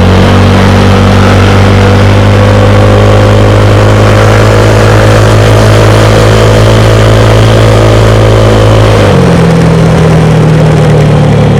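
A motor vehicle engine running loud and close, its pitch creeping slowly upward, then dropping abruptly about nine seconds in.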